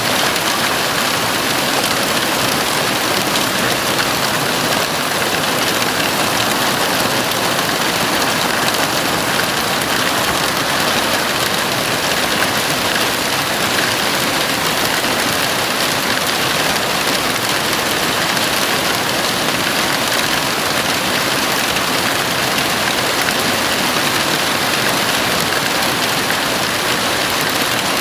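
Heavy rain falling on a house roof: a steady, even hiss with no single drops or thunder standing out.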